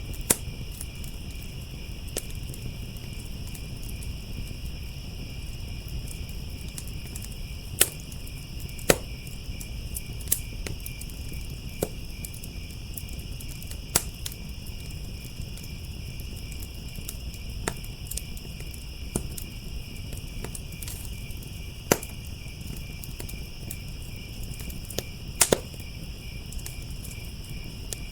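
Crickets chirping in a steady high-pitched chorus over a crackling wood fire in a firepit, whose sharp pops come at irregular intervals, a few of them much louder than the rest. A low steady rumble runs underneath.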